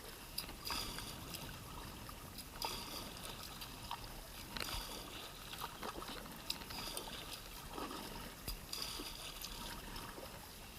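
Kayak paddle dipping with water trickling and splashing lightly, and a few faint scattered knocks.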